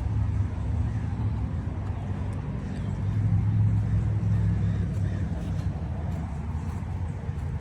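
Low vehicle rumble, like road traffic, swelling about three seconds in and easing off again.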